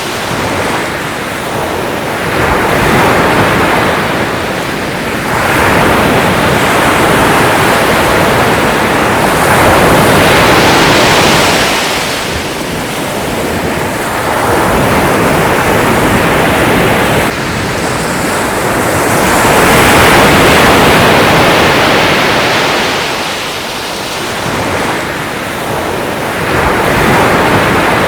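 Sea waves breaking and washing ashore, the surf rising and falling in slow swells every few seconds.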